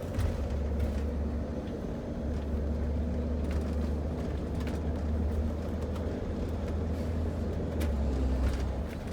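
Engine and road noise heard from inside a moving vehicle's cabin: a steady low drone with a few light clicks and rattles.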